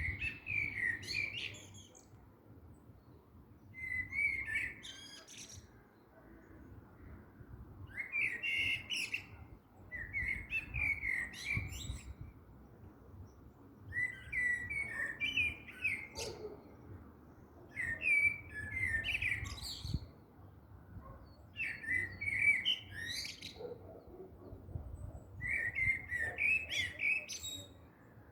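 A songbird singing short, similar phrases over and over, one every two to four seconds, over a faint low rumble.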